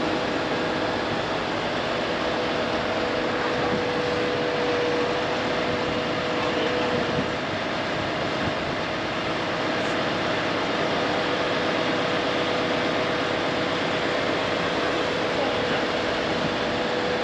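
A machine running steadily, a constant hum with a held mid-pitched tone and no change in speed.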